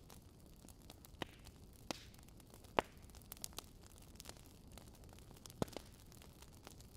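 Wood fire crackling in a fireplace: a faint steady hiss broken by scattered sharp pops, the loudest about three seconds in and another strong one near the end.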